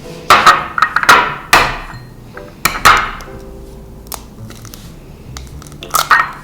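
A series of loud, sharp knocks and bangs on a kitchen work surface. There are several in quick succession in the first three seconds and one more near the end, each ringing briefly.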